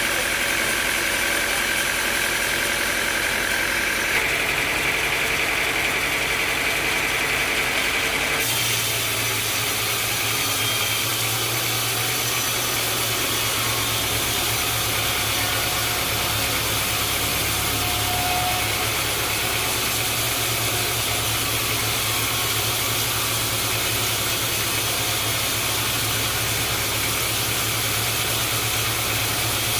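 Sawmill machinery running steadily with an engine-like hum. The sound changes abruptly about four seconds in and again about eight seconds in, then holds steady.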